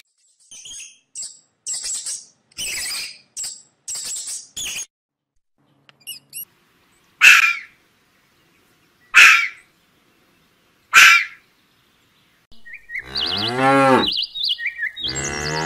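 A small rodent's short high squeaks, then a red fox giving three sharp calls about two seconds apart, then a calf mooing once with a falling pitch.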